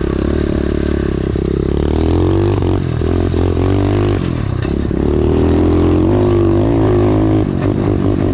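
Dirt bike engine running while being ridden. The revs hold steady at first, then fall and rise several times.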